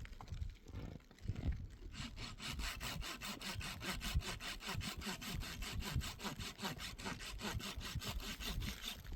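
Sawing: a fast, even run of rasping strokes, about five a second, starting about two seconds in.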